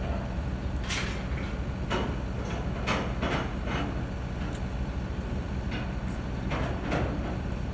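Truck engine running steadily with a low rumble, under a series of sharp metallic clanks and knocks, about one every second or two, as a PODS storage container is handled onto the truck.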